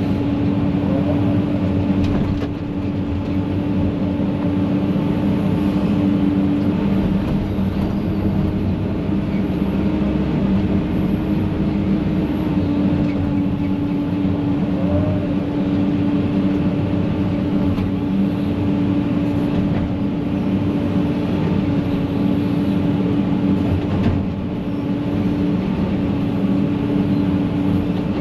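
Heavy diesel engine of land-clearing equipment running at a steady speed, with a couple of faint knocks.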